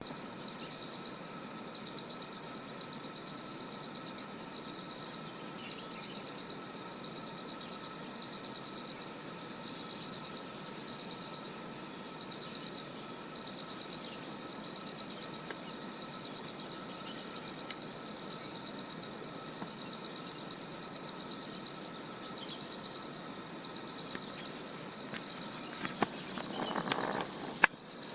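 A dense chorus of insects chirring steadily in fast, even pulses at a high pitch, with a second, lower, steady insect tone beneath it. Near the end there are a few sharp clicks and a brief rustle.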